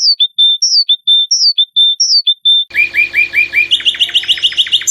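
A songbird singing: a two-note phrase, a falling whistle and then a short steady note, repeated four times, followed about two and a half seconds in by a fast run of repeated notes that speeds up and climbs higher near the end.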